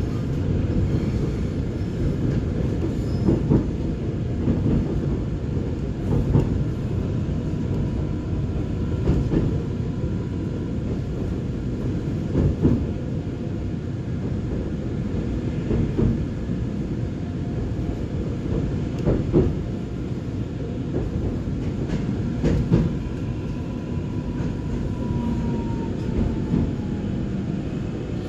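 Gyeongui–Jungang Line electric train running along the track: a steady rumble of wheels on rails with a louder knock every three seconds or so, and a faint falling whine near the end.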